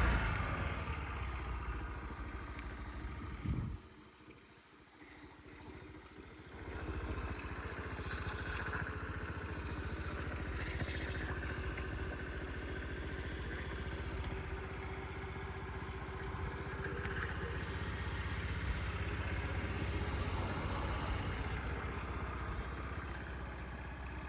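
Honda Today AF61 50cc four-stroke scooter engine dropping back to idle after a rev, then cutting out with a short knock about three and a half seconds in. A few seconds later it is running again and idles steadily.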